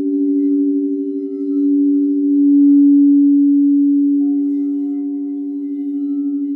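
Singing bowls ringing in two steady, pure low tones with a slow pulsing wobble. They swell louder around the middle, and a faint higher overtone joins about two-thirds of the way through.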